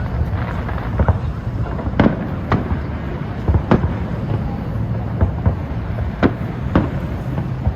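Fireworks bursting overhead: sharp bangs and cracks at irregular intervals, roughly one to two a second, over a continuous low rumble of the display and crowd.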